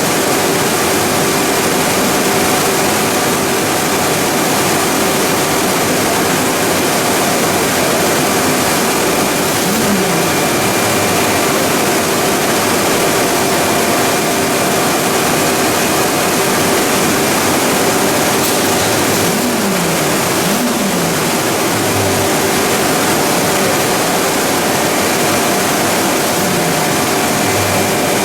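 Plastic pelletizing line machinery running steadily: a loud, even mechanical noise with a constant hum and whine. A few brief low tones dip in pitch now and then.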